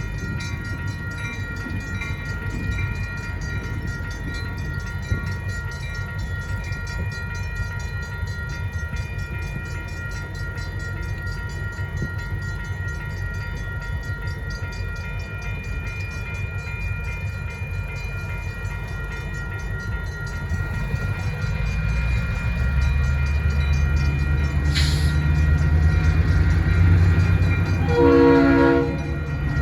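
Grade-crossing bell ringing steadily while the diesel of an EMD SW1500 switcher grows louder from about two-thirds of the way in as the locomotive approaches. A brief hiss comes a few seconds before the end, then a short horn blast of about a second.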